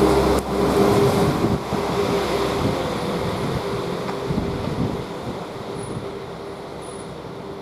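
Class 196 diesel multiple unit pulling away, its engine hum and a held whining tone fading steadily as it draws off.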